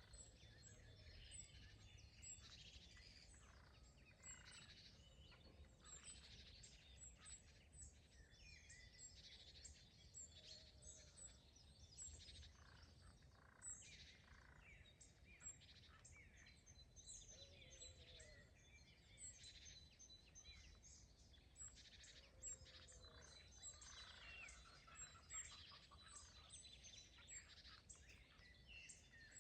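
Faint chorus of many songbirds chirping and singing in overlapping short calls and trills, over a steady low rumble of background noise.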